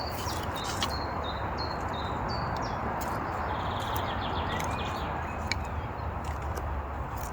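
Small birds chirping in short repeated high notes over a steady rushing background, with a few scattered sharp clicks.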